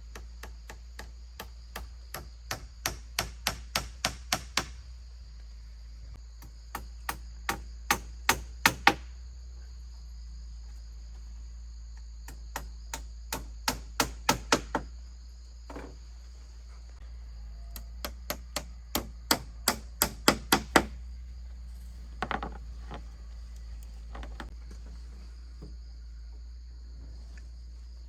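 Hammer blows in four runs of roughly eight to twelve strikes, each run starting light and growing faster and louder, as in driving nails into floorboards. Crickets chirp steadily in the background.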